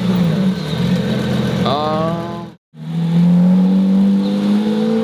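Car engine revving and accelerating: a quick rise in pitch about two seconds in, then a brief cut to silence, then a steadier engine note climbing slowly in pitch.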